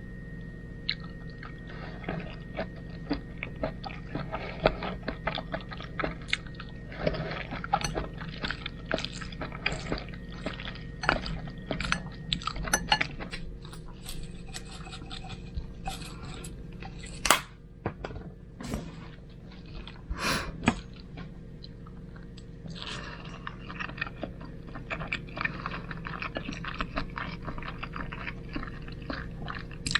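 Close-miked chewing and wet mouth clicks of someone eating spaghetti, irregular and continuous, with a few louder sharp sounds a little past the middle. A steady low hum runs underneath.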